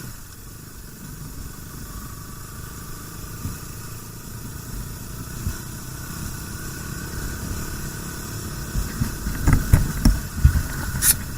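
Motorcycle engine running, slowly getting louder, with several low thumps about nine to eleven seconds in and a brief sharp crackle near the end.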